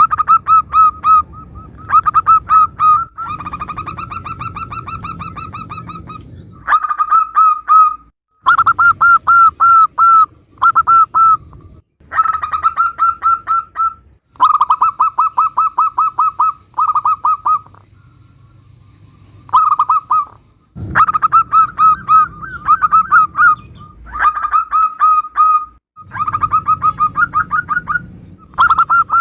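Zebra doves (local perkutut) cooing: phrase after phrase of rapid, evenly repeated high notes, each phrase lasting a second or a few, with short pauses and one longer gap about two-thirds of the way through. The background hiss changes abruptly between phrases, as recordings are spliced together.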